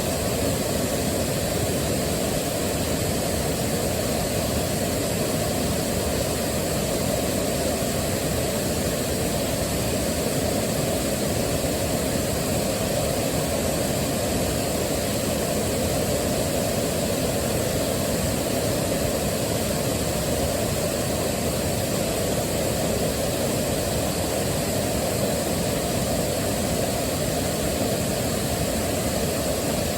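Waterfall: a steady, even rush of falling water that stays the same throughout, heavier in the low and middle range than in the highs.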